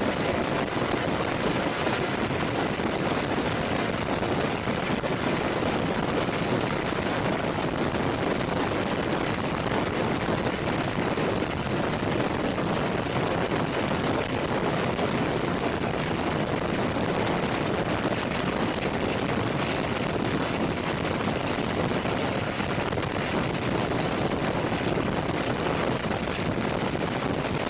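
Steady aircraft noise, an even rushing sound that holds at one level with no break or change.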